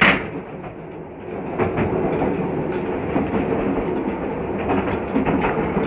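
Railway carriage running along the track, heard from on board: a steady rumble of wheels on rail with irregular clicks from the rail joints. A sharp burst at the very start is followed by about a second of quieter running before the rumble returns.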